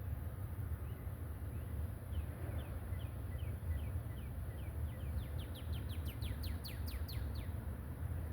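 A small bird singing a run of short, falling whistled notes that speed up and grow louder and higher in the second half, over a steady low rumble.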